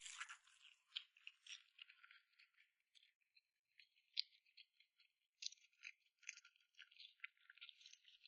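Faint, irregular rapid clicks and crackles of close-miked eating: chewing and mouth sounds, with no speech.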